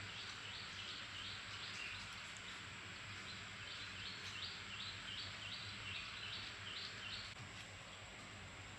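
A bird calling in runs of short, repeated high chirps, about three a second, over a steady background hiss. The chirping breaks off about two seconds in and starts again, stopping a little before the end.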